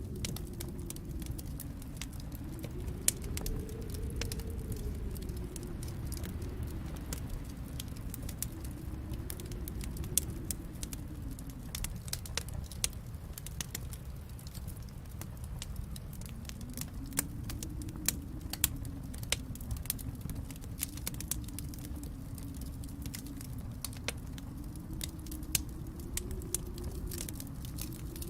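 Wood fire crackling with many scattered sharp pops, over a low rumble of storm wind that swells and eases every few seconds.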